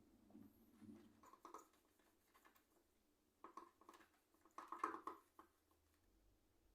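Faint clicks and rubbing from keyboard parts being handled and cleaned, in three short clusters, the last the loudest.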